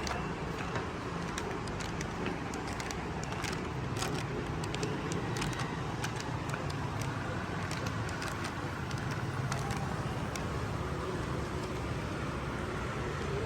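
Steady street traffic: a low rumble of passing road vehicles, with small scattered clicks and knocks.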